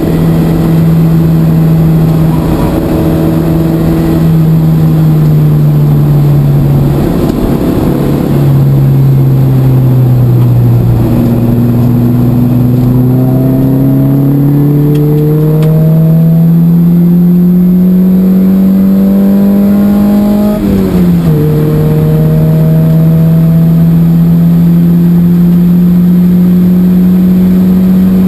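The mid-engined Opel Speedster's four-cylinder engine, heard from inside the cabin, running hard on track. Its pitch sags briefly about 7 s in and then climbs slowly as the car accelerates. It drops sharply about 21 s in with an upshift and then holds steady, with road and wind noise underneath.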